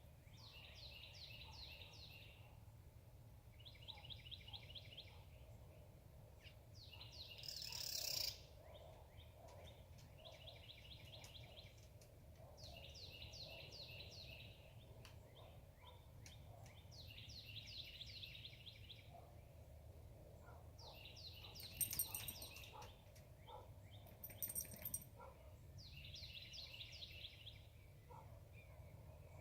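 A songbird faintly singing the same short phrase of quick, high repeated notes over and over, about one phrase every two to three seconds, over a steady low background rumble. A brief rising rush of noise cuts off sharply about a quarter of the way in, and two short, very high chirps come near the end.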